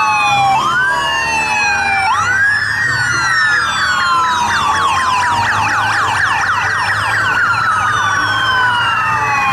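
Several electronic emergency sirens sounding at once, slow wails rising and falling overlaid with a fast repeating yelp, over a low hum. The sound starts and stops abruptly.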